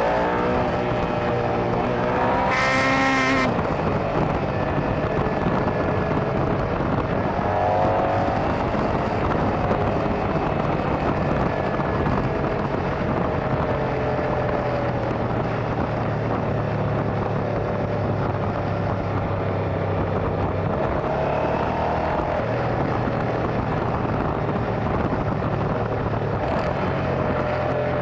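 Motorcycle engine running under way, its pitch climbing under acceleration about two, eight and twenty-two seconds in and holding steady in between, over constant wind and road rush. A brief loud rush sits about three seconds in.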